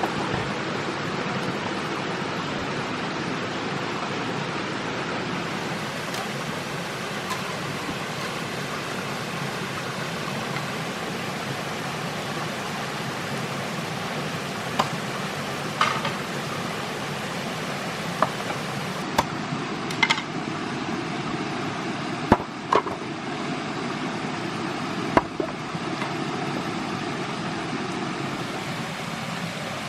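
Steady rushing hiss, like running water or rain, with a handful of short sharp knocks scattered through the second half.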